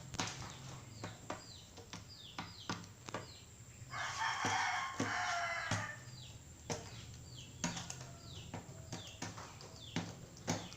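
Rooster pecking at flakes: a run of sharp beak taps. Near the middle it crows once, a rough call lasting about two seconds and louder than the taps.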